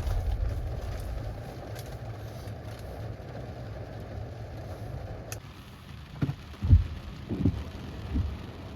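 Rain on a car with a low thunder rumble dying away at first. A sharp click comes about five seconds in, then a few low thumps.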